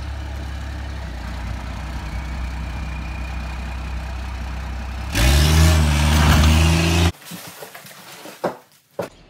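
A vehicle engine idling steadily, then revved up about five seconds in and held at higher revs for about two seconds before cutting off abruptly.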